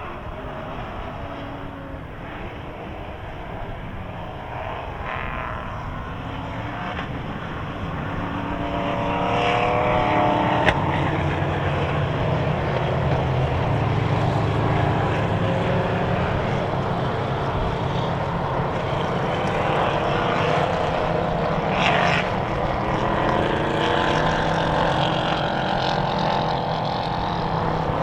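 Race car engines running hard on the circuit, several cars going by with engine notes rising and falling through the gears. The sound builds about a third of the way in and stays loud.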